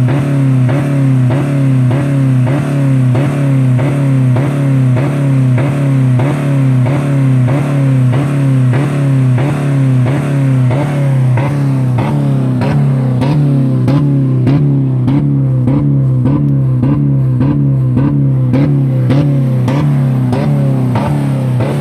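2000 Dodge Neon's four-cylinder engine held at about 4000 rpm against the rev limiter, running with no oil or coolant, with a steady pulsing about twice a second. About halfway through the pulses turn sharper and harsher.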